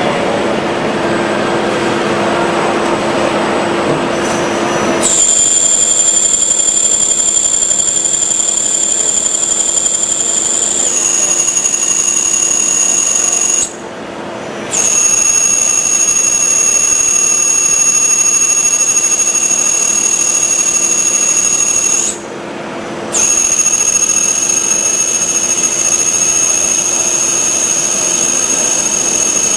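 Milling machine running: a steady machine hum, then from about five seconds in a high-pitched steady whine, as if the cutter were in the cut, that drops out twice for about a second and returns.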